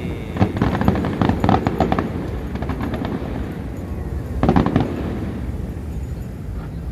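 Fireworks going off: a rapid run of bangs and crackles through the first two seconds, then another short cluster of bangs about four and a half seconds in.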